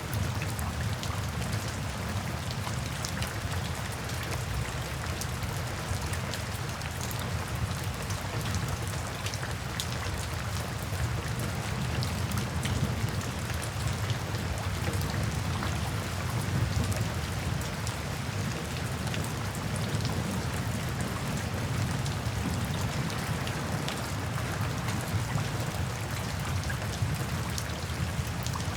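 Steady rain falling, with individual drops ticking over a continuous low rumble.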